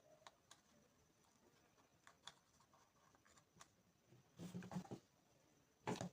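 Near silence with faint scattered clicks and taps from handling a speaker and soldering tools, and two brief louder rustling handling noises about four and a half and six seconds in.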